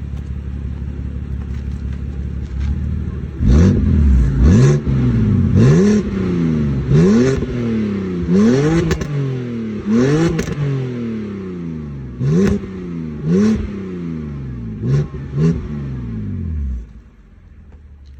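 Warmed-up BMW N52 inline-six with a muffler-deleted exhaust idling, then blipped about a dozen times, some in quick pairs, the pitch sweeping up and falling back to idle each time. The engine sound drops away sharply near the end.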